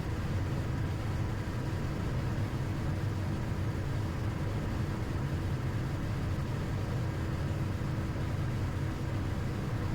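Steady cockpit noise of a Cessna Citation XL business jet on short final: a low, even rumble of airflow and engines with a faint steady hum.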